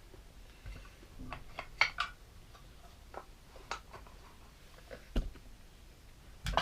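Toy train track pieces and blocks being handled and fitted together: a scatter of light clicks and taps, with a heavier knock about five seconds in.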